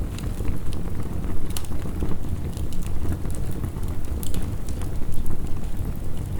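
Wood fire crackling, with irregular sharp pops, over a steady low rush of heavy rain.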